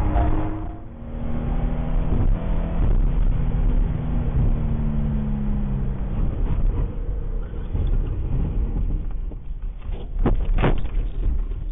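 Car engine and road noise on a dashcam recording, with a steady engine note that dips slightly in pitch about five to six seconds in. Two short sharp sounds come a little after ten seconds.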